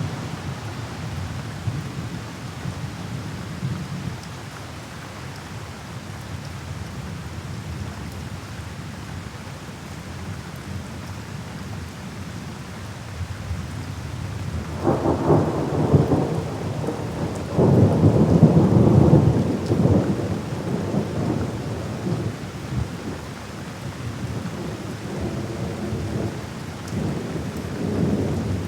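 Steady rain with rolling thunder: the rumbles swell up loudest from about fifteen to twenty seconds in, with another starting near the end.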